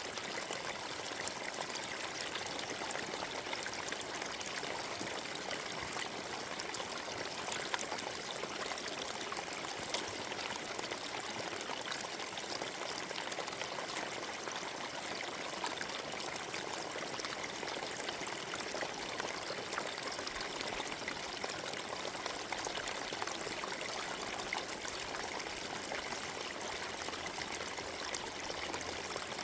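Forest stream flowing over stones, a steady trickling and splashing with small droplet ticks.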